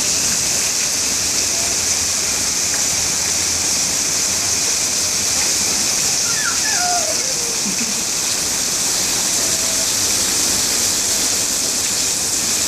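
Heavy rain pouring down in a steady, loud, unbroken hiss.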